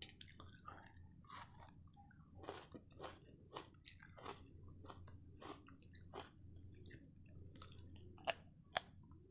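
A person biting and chewing deep-fried chicken kebab, heard close up as a run of short, crisp crackles. Two sharper, louder bites come near the end.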